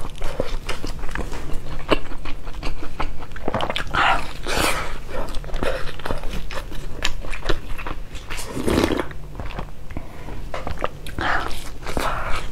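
Close-miked chewing of a vegetable-filled flatbread: many small wet mouth clicks and smacks, with a few louder mouth sounds and another bite near the end.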